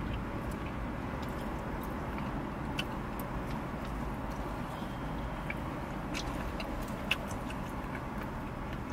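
Chewing and lip-smacking of two people eating chicken wings, heard as scattered small wet clicks, over a steady low rumble inside the car.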